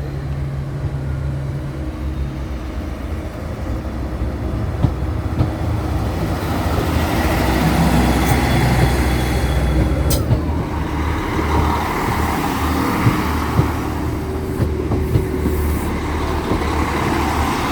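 Train running on the line, its low rumble building over the first eight seconds or so, with sharp wheel clicks over the rail joints and a brief high squeal that cuts off about ten seconds in.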